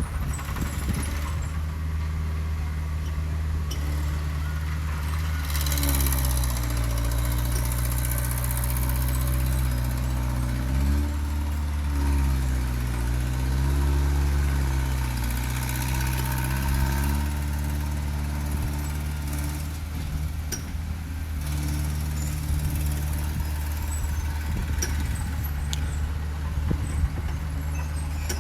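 Heavy diesel engine of earthmoving machinery running steadily, its pitch swinging down and back up a few times through the middle as it works.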